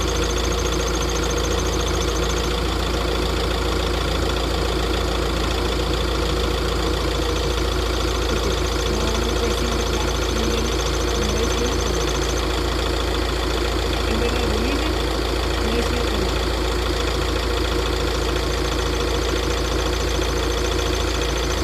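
Tata Safari Dicor diesel engine idling steadily with a knock, which the owner puts down mostly to a glow plug.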